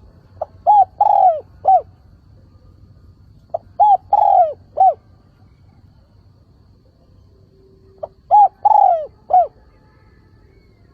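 Spotted dove cooing its calling song, three phrases a few seconds apart, each a couple of short coos, a longer falling coo and a short final coo. It is the call a decoy dove gives to draw in wild males.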